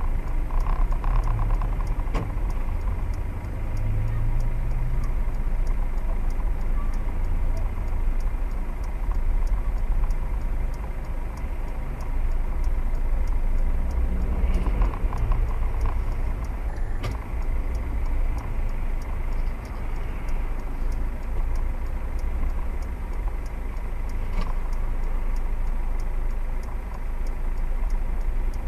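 Steady low rumble of a motor vehicle driving: engine and road noise, with a few faint knocks.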